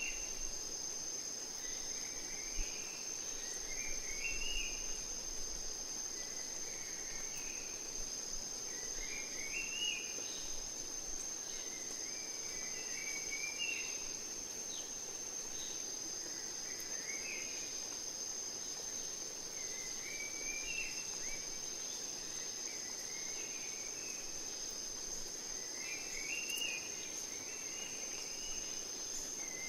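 Insects, such as crickets, trilling in a steady high tone, with a bird repeating a short, rising, stepped call every two to three seconds over a soft, even background hiss.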